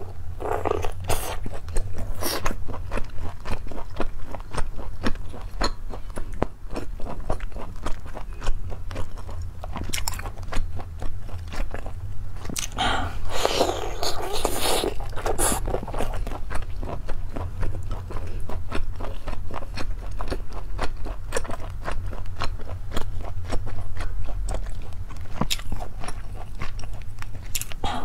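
Close-miked mouth sounds of someone biting and chewing skewered lobster meat, with a dense run of wet smacks and crunchy clicks and a few louder rushes, the largest near the middle. A steady low hum runs underneath.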